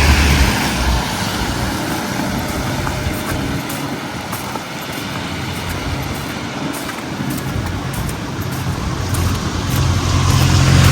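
Street traffic: a motor vehicle's engine running close by, fading through the middle and building up again near the end, over a steady wash of traffic noise.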